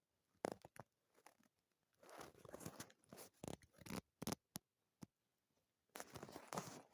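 Paper being worked by hand: scissors snipping and paper rustling and scraping in short separate bursts with pauses between them, a few sharp clicks in the first second, and a longer rustle near the end.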